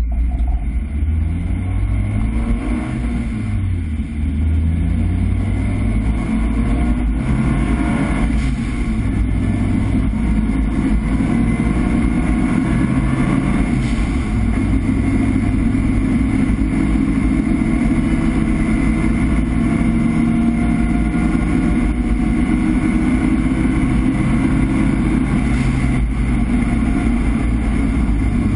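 Nissan 200SX S13's turbocharged SR20DET four-cylinder engine under way, heard loud from inside the stripped, roll-caged cabin, its pitch rising and falling repeatedly as the car is driven.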